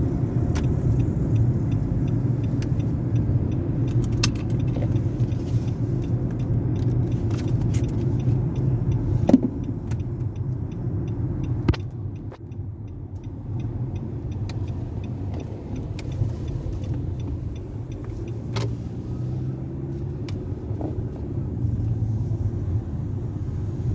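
Steady low rumble of a car, with scattered light clicks and rattles and two sharper knocks about nine and twelve seconds in; the rumble is quieter after the second knock.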